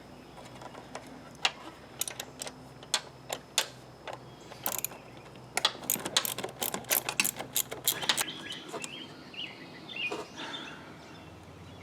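Quarter-inch drive socket ratchet clicking as a bolt is worked loose, in irregular runs of clicks that are densest from about six to eight seconds in.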